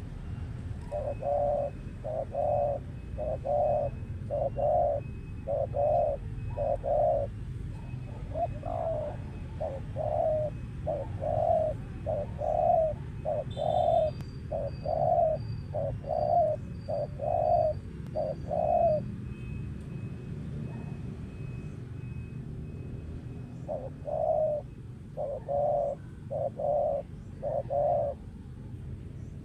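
Spotted dove cooing: a long run of about twenty low, evenly spaced coos, a pause of some five seconds, then five more.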